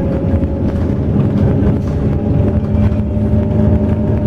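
Intercity coach driving, heard from inside the cabin: a steady low rumble of engine and road noise with a faint, steady whine.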